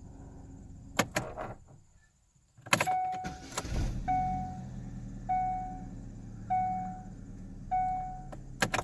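A 2010 Chevy Malibu's engine is switched off and restarted: key clicks, the idle dies away, and a few seconds in the starter brings it back to a steady idle. Over the idle a dashboard warning chime sounds five times, about once a second, along with the car's 'Service ESC' traction-control warning.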